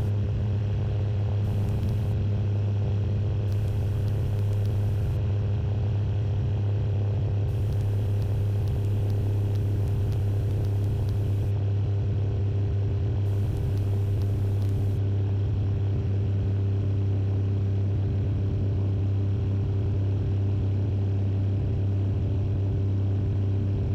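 Steady drone of a Tecnam Sierra Mk II light-sport airplane's Rotax 912 engine and propeller in flight, holding an even pitch throughout.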